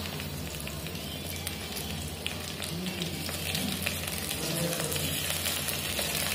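Onion, ginger and garlic paste frying in hot oil in a kadhai: a steady sizzle full of small crackles that grows a little louder in the second half.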